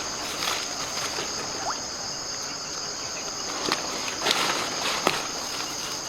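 Insects droning steadily at a high pitch, with a few sharp clicks or knocks in the second half.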